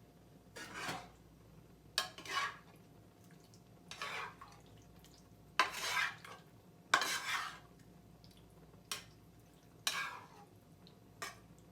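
A utensil stirring and scraping through thick tomato-and-eggplant sauce in a pan, working in the powdered consommé. It goes in separate strokes about every one to two seconds, a few starting with a clack against the pan.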